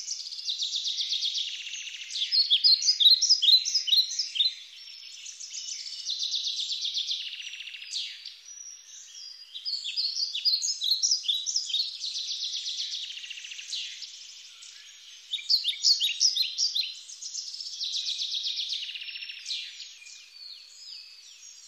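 Songbird singing: repeated phrases every few seconds, some a fast trill and some a run of quick down-slurred notes.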